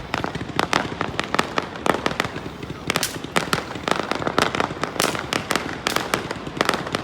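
Fireworks display: a rapid, irregular run of sharp bangs and crackling pops, several a second.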